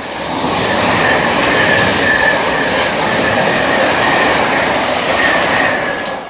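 Class 700 electric multiple unit running along the platform: steady wheel-on-rail noise with a thin high squeal that comes and goes.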